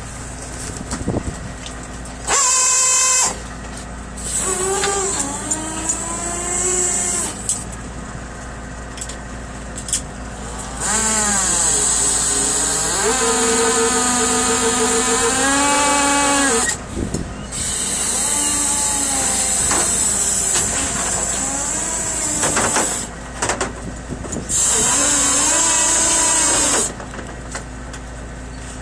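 Machinery whining in about five spells of a few seconds each, its pitch rising as each spell starts and falling as it ends, with a hiss on top, over a steady low hum.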